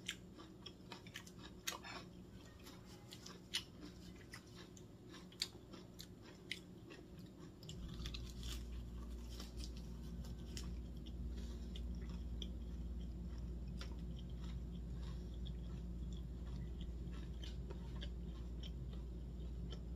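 Close-up mouth sounds of someone eating lettuce-wrapped rice (ssambap): wet chewing with sharp clicks and light crunching as a lettuce wrap is bitten into and chewed. About eight seconds in a steady low hum starts and continues under the chewing.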